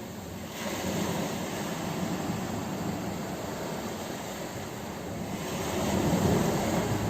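Sea waves washing onto a shore, a continuous surging rush that swells louder about six seconds in as a wave breaks.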